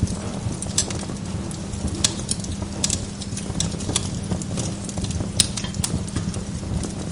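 Wood log fire in a fireplace crackling, with irregular sharp pops over a steady low rumble.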